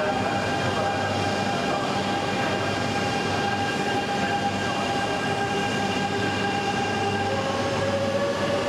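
E2 series Shinkansen approaching on curved station track: a steady rumble and hiss with several high whining tones that slowly fall, and a new, lower tone that comes in and rises near the end as the train rounds the curve.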